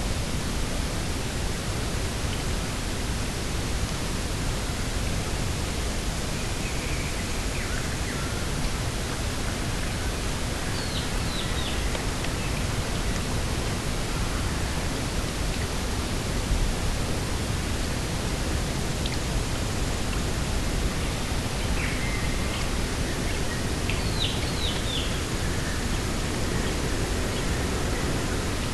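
Steady rushing outdoor noise with birds calling now and then: quick clusters of three or four high, downward-sliding notes about ten seconds in and again near the end, and a few lower chirps in between.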